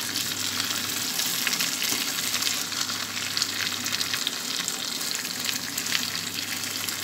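Chicken pieces frying in hot oil in a pan: a steady sizzle with frequent small crackles, while a spatula stirs and turns the pieces.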